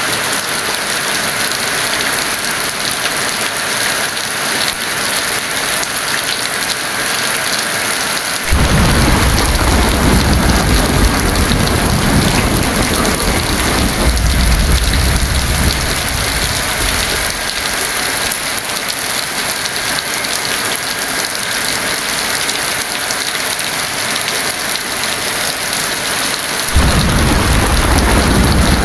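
Heavy rain falling with a steady hiss. A deep rumble of thunder starts suddenly about a third of the way in and rolls for several seconds before fading, and a second roll of thunder starts near the end.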